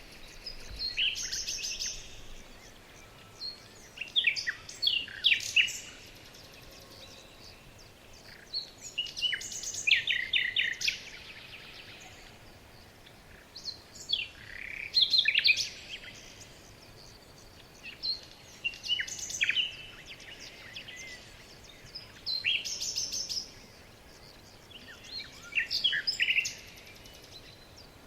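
Songbirds singing short, rapid chirping phrases, about seven of them, each a second or two long and a few seconds apart, over a steady background hiss.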